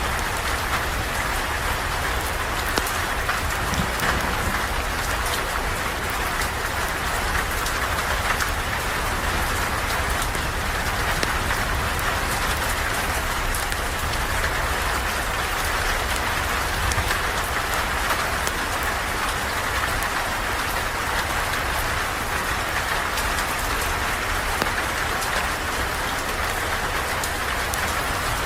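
Steady rain falling, an even hiss with scattered small sharp ticks.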